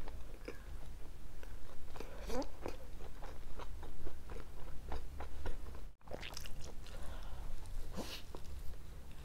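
Close-miked chewing of cheese pizza, with small crunches and wet mouth clicks, and a bite into the slice near the end. A steady low hum runs underneath, and the sound drops out briefly about six seconds in.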